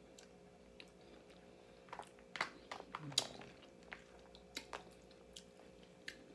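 Close-up mouth sounds of a person chewing a mouthful of linguine: wet smacks and clicks, thickest about two to three seconds in, then sparser single clicks.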